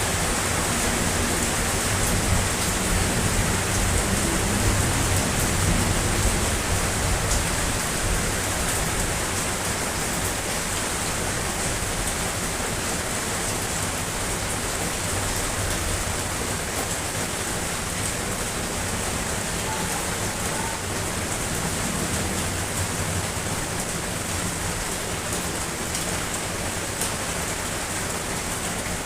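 Steady rain falling, an even hiss with scattered drop ticks. A low rumble underneath is stronger in the first several seconds and then eases.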